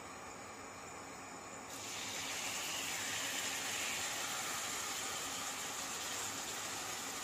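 Masala-marinated chicken sizzling as it is tipped into hot oil in a non-stick frying pan. The sizzle starts suddenly about two seconds in and keeps going steadily.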